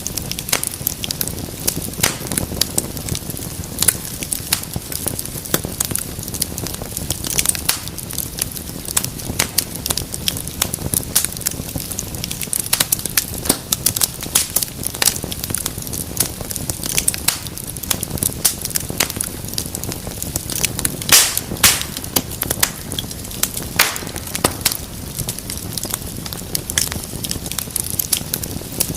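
Wood fire in a fireplace burning steadily, with a low rumble and hiss under dense, irregular crackles and pops, and a few sharper snaps about two-thirds of the way through.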